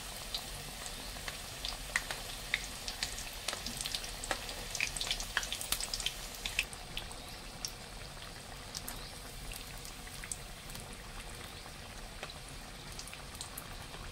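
Spring rolls frying in hot oil: a steady sizzle with scattered sharp pops and crackles, thickest in the first half and thinning out after about seven seconds.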